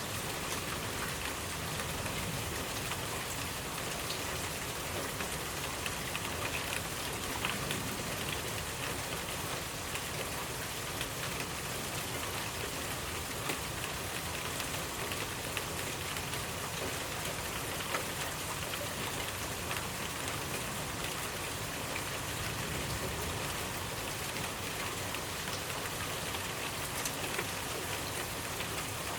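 Steady rainfall with many individual drops pattering on a surface.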